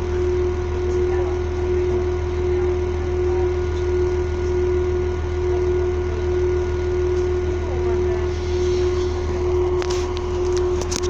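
Passenger train standing at a station, its machinery giving a steady hum with one constant mid-pitched drone. A few sharp clicks and knocks come near the end as the train begins to move off.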